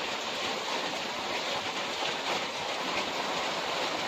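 Steady rushing noise of storm wind and rain from a nearby tornado, with no let-up.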